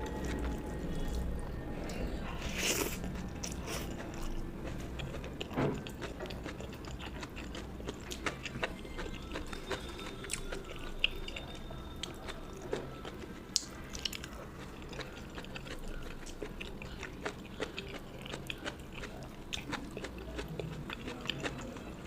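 Close-miked chewing and mouth sounds of a person eating a rice-and-curry meal, with scattered crunches and wet clicks throughout.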